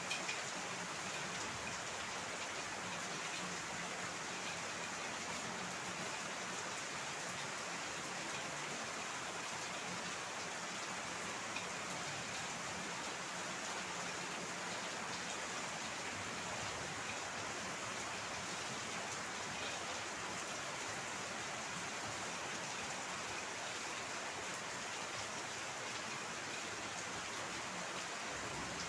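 Heavy rain falling steadily, a continuous even hiss of rain on surfaces.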